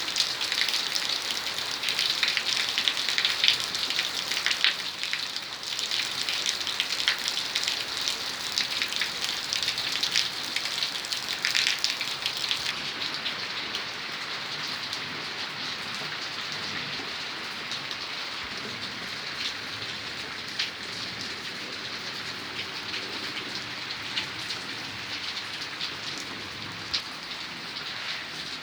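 Rain falling, with dense, close drop impacts over the first dozen seconds, then easing into a steadier, slightly softer hiss.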